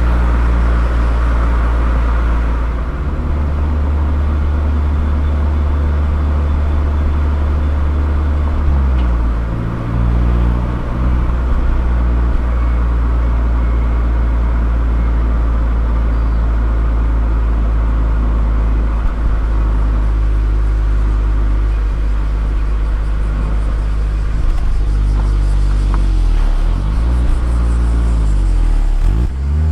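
Mazda ND Roadster's four-cylinder engine running through a KPC aftermarket exhaust at low, steady cruising revs, a deep drone. The revs dip and recover about ten seconds in, and again several times near the end.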